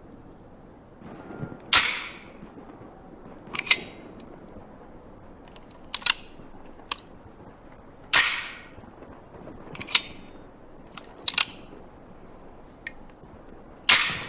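A series of sharp, separate clicks, about one every two seconds, some of them doubled.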